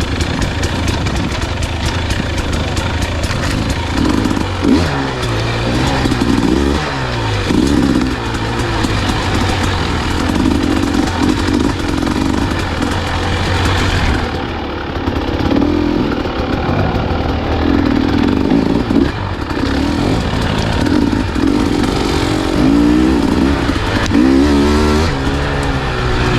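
Dirt bike engine running hard on a trail, its pitch rising and falling again and again as the throttle is worked and gears change.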